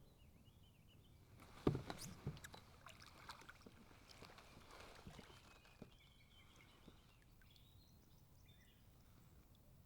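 Kayak handling sounds: a sharp knock on the hull about a second and a half in, then a few seconds of smaller knocks and water splashing. Faint bird chirps behind.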